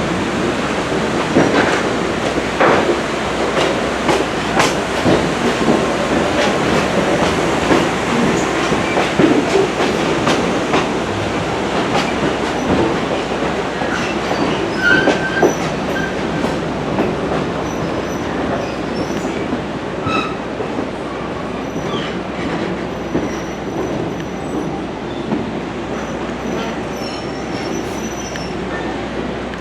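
Passenger train rolling along the track: a steady rumble of wheels on rail with scattered clicks and knocks, and a few short high squeals from the wheels. It eases slightly in the second half.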